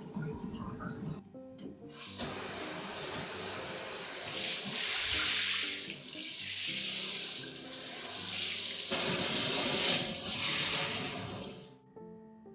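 Water running in a strong, steady stream, starting about two seconds in, its sound shifting a little as it flows, and cutting off near the end. Soft background music plays underneath.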